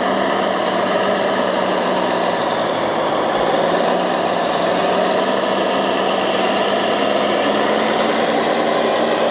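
Small electric motors and hydraulic pump of 1/14 scale RC construction machines running steadily, a continuous mechanical whirring with a faint thin high whine.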